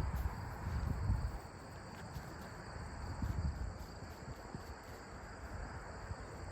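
Insects chirring steadily in a high even drone, over a low rumble; a sharp click at the very start.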